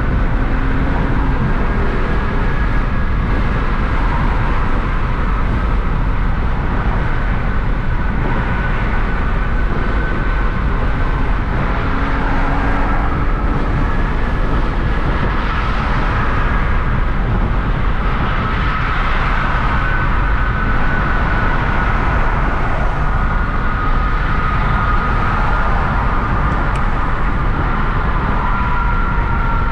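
Hyundai Genesis Coupe 3.8 V6 on the move: a steady rumble of engine and road noise, with a faint whine that drifts slowly up and down in pitch.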